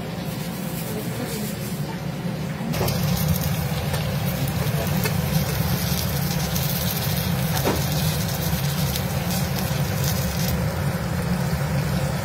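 Stuffed brinjals frying in oil in a kadai, a steady sizzle with fine crackles over a low hum. About three seconds in the sizzle turns suddenly louder and hissier.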